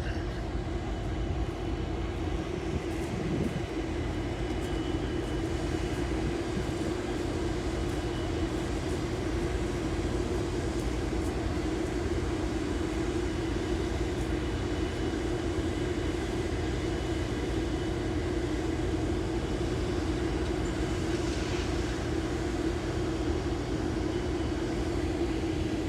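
Diesel locomotive engine running steadily, a constant low hum with a strong steady tone.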